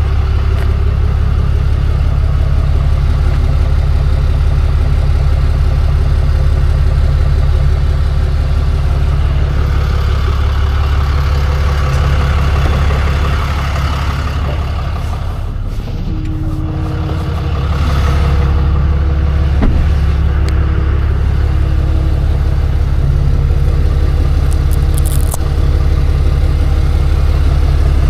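Tow truck's engine running steadily. It eases off briefly about halfway through, then picks up again.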